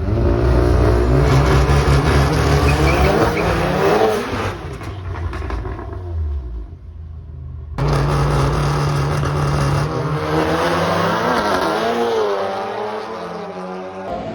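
Drag-racing cars at full throttle down the strip, engines revving up hard with rising pitch. The sound cuts off shortly before eight seconds in and starts again with a second loud run.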